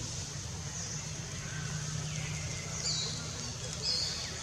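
Birds chirping outdoors: short high chirps, several in the second half, over a steady low hum.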